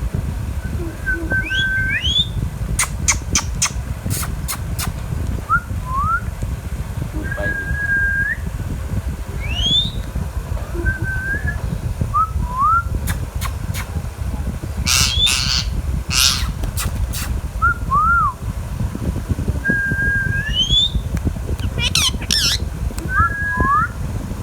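Indian ringneck parakeet calling: short whistled notes, some held level and others sweeping quickly upward, every second or two, with a few short harsh squawks. A steady low rumble runs underneath.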